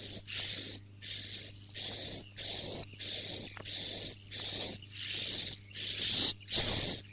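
Swiftlet (walet) 'inap' roosting call, the lure sound played in swiftlet houses to draw the birds in to roost: a steady run of high, buzzy calls, each about half a second long, repeating about one and a half times a second. A faint low hum runs underneath.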